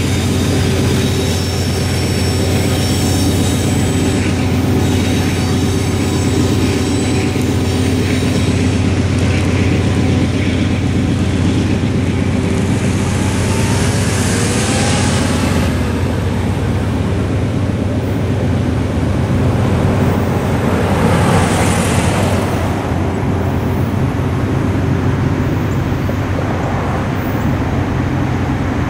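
Rumble of a freight train moving off past the crossing, with faint wheel squeal in the first several seconds. A car drives over the crossing about 14 s in and another vehicle passes about 21 s in.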